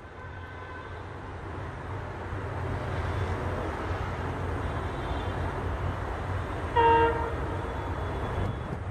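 Diesel locomotive of an approaching express train rumbling, growing louder over the first few seconds, with one short, loud horn toot about seven seconds in.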